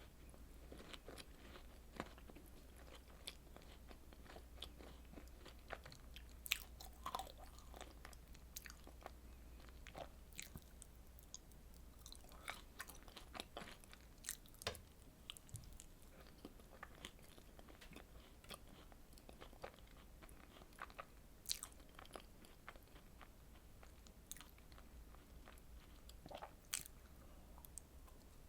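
Close-miked eating: a strawberry dessert being bitten and chewed, with irregular soft wet clicks and crunches and a few sharper bites scattered throughout.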